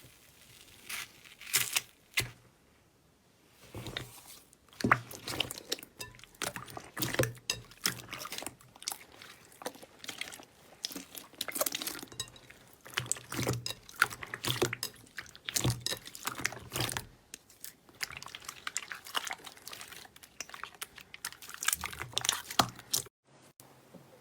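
Slime being squeezed, pressed and poked by hand, giving a dense run of sticky crackles, pops and squelches. It pauses briefly a few seconds in and breaks off abruptly just before the end.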